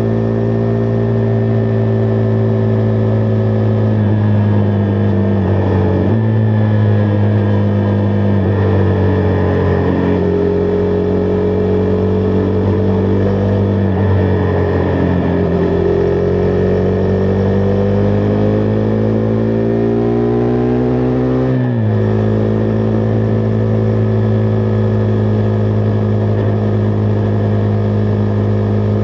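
Single-cylinder engine of a Husqvarna Vitpilen 401 running on the move. Its pitch drops sharply about six seconds in, climbs slowly, then drops sharply again a little over twenty seconds in.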